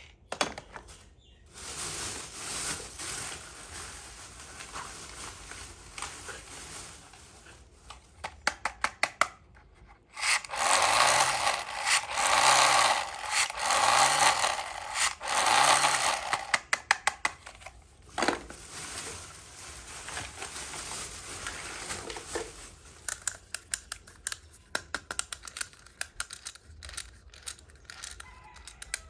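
Close-up handling of small toy-set pieces: rubbing and scraping with runs of quick clicks. In the middle comes a louder stretch of four long scraping strokes.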